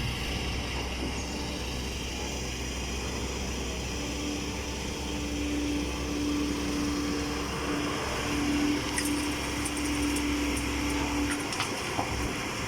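Five-cylinder diesel engine of a loaded dump truck running under load as it climbs out of the pit, a steady low drone. A steady hum rides on it from about four seconds in until shortly before the end.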